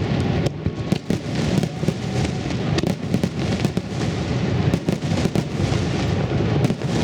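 Fireworks finale: a dense, continuous barrage of aerial shells bursting and crackling, booms overlapping with sharp cracks and a constant low rumble.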